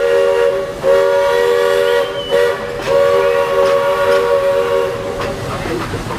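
Walt Disney World Railroad steam locomotive's chime whistle, sounding several tones at once in a series of blasts: a long blast, two short toots, then a long blast that fades out about five seconds in.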